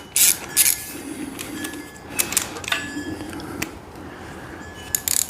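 Scattered metallic clicks and clinks of a socket wrench and a spark plug being handled on a small-block Chevy V8, as a plug is pulled for inspection.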